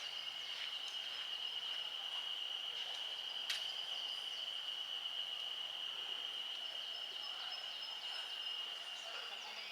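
A steady high-pitched tone, held unbroken for about nine and a half seconds, with a single sharp click about three and a half seconds in.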